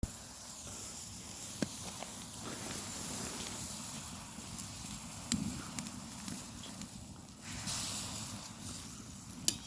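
Firewood fire crackling, with a few sharp pops.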